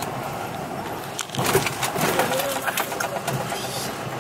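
Steady road and engine noise inside a moving car. About a second and a half in, a short, low, wavering voice-like or cooing sound rises over it.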